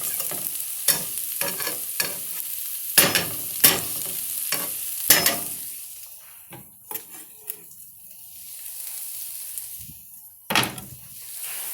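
Onions and garlic sizzling in a frying pan while a utensil stirs and scrapes against the pan, with frequent sharp knocks through the first half. The sizzle drops lower in the middle, and one more loud scrape comes near the end.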